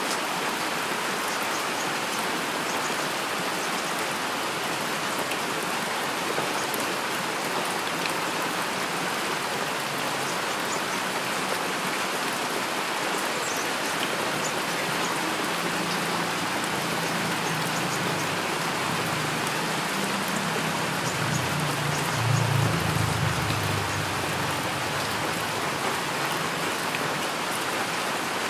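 Steady heavy rain. A low rumble of thunder builds about halfway through, is loudest around three-quarters of the way in, and dies away.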